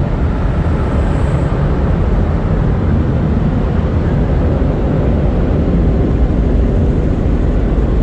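MacNeil and Ryko car wash blower dryers blowing air over the car: a loud, steady rush of air.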